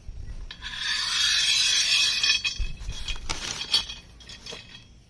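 Bolts scraping as they are slid along the channel of an aluminium mill rail, then a handful of sharp metal clinks and knocks as the hardware is handled.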